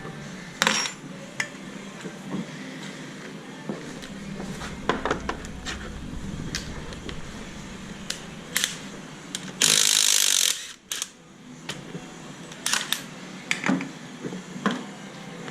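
Metal tools clinking and clanking in irregular knocks during engine-removal work, with a loud rush of noise lasting about a second roughly ten seconds in.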